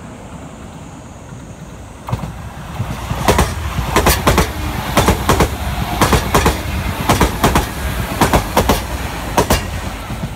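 JR Kyushu 305 series six-car electric train passing close by. About two seconds in a low rumble swells, then the wheels clack over the rail joints in quick pairs, roughly one pair a second, as each car goes past.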